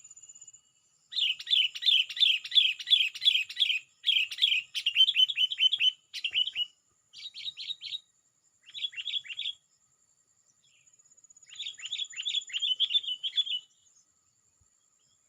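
Sooty-headed bulbul giving a challenging call to rival bulbuls: quick runs of sharp, down-slurred notes, about three or four a second. The runs come in several bursts broken by short pauses, with a longer pause before the last burst. A faint, steady, thin high tone runs underneath.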